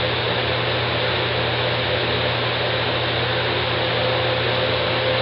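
Steady background hiss with a low, even hum underneath, unchanging throughout.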